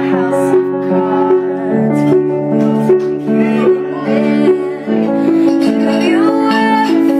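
Piano playing repeated chords in a steady pulse, as accompaniment to a pop song.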